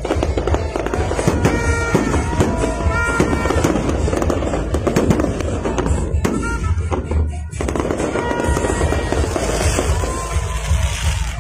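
Fireworks crackling and popping in a rapid, dense barrage, with music playing underneath.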